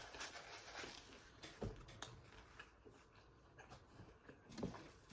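Faint mouth sounds of a person eating fried seafood: quiet chewing with a few soft lip smacks, one about a second and a half in and another near the end.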